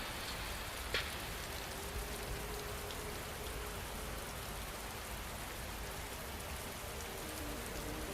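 Steady rain falling, an even hiss with a single drip-like tick about a second in. Soft synth notes begin to come in faintly near the end.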